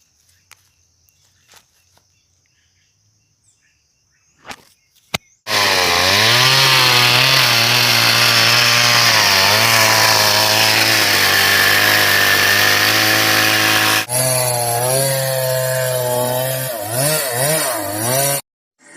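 Two-stroke chainsaw starting about five seconds in and running at high revs, its pitch wavering and dipping as it works. It breaks off for an instant near the middle, runs on with a few dips in pitch, and cuts off suddenly just before the end.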